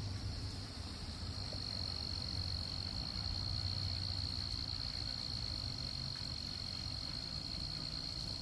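Insects, crickets or similar, trilling steadily at one high pitch, louder after about a second, over a steady low rumble.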